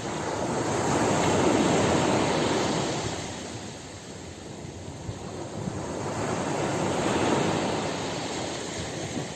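Ocean waves breaking and washing up a beach, two swells of surf rising and falling, about six seconds apart.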